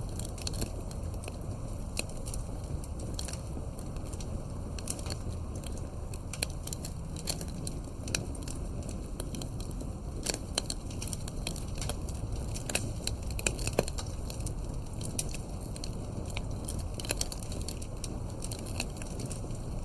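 Wood fire burning in a fireplace, crackling and popping with irregular sharp snaps over a steady low rumble of the flames.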